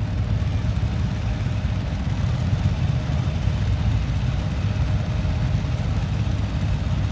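Pulling tractor's engine running with a steady deep rumble.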